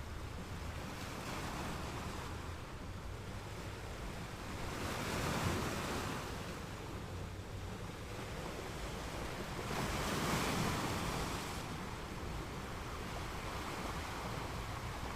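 Ocean waves breaking and washing on the shore, with two larger waves swelling and receding about five seconds apart over a steady surf hiss.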